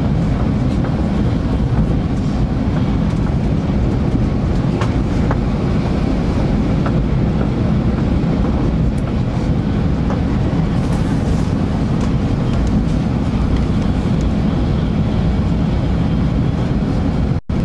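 Steady low rumble inside the passenger cabin of a 500 Series Shinkansen running at high speed, with a few faint ticks. The sound drops out for an instant near the end.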